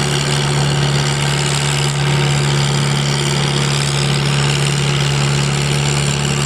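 Farmall H tractor's four-cylinder gasoline engine running loud at steady revs under heavy load, pulling a weight-transfer sled in first gear.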